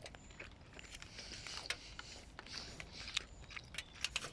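A person chewing a mouthful of hot steak, with scattered small clicks and scrapes and soft breathy hisses.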